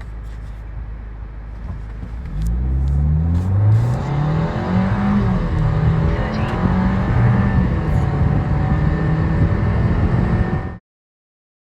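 Kia K5 GT-Line's 1.6-litre turbocharged four-cylinder accelerating hard on a full-throttle pull, getting louder about two seconds in with the engine note climbing in pitch, dipping once partway through and pulling on, with a faint high tone over it. The sound cuts off abruptly near the end.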